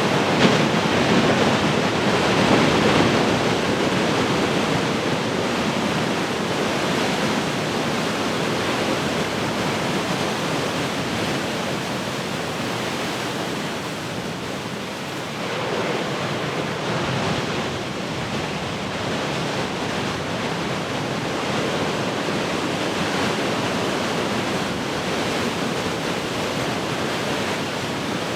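Heavy ocean surf: waves breaking and washing in a continuous roar that swells as a wave breaks near the start and again about halfway through, with some wind buffeting the microphone.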